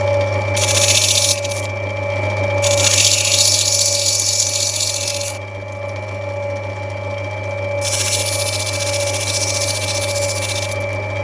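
Lapidary grinding wheel running with a steady hum while a piece of opal is pressed against it to rub it back, giving a hissing grind three times as the stone goes on and comes off the wheel.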